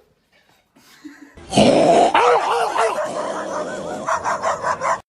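Dog vocalizing in a string of wavering, rising-and-falling calls. The calls start about a second and a half in and cut off suddenly near the end.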